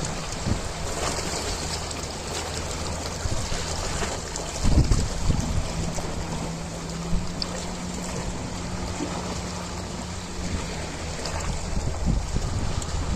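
Ocean waves washing, a steady rushing of water, with a low steady hum underneath and a brief low rumble about five seconds in.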